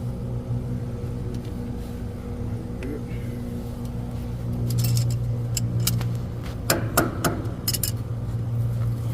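A steady low motor hum, with a run of light metallic clinks and rattles of tools being handled from about halfway in to near the end.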